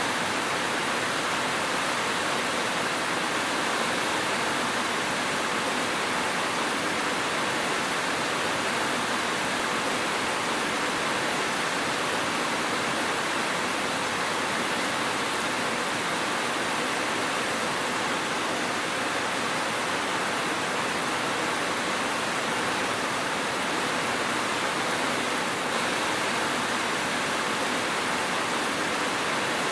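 Steady, even rain with no thunder: a dense, unbroken hiss that holds the same level throughout.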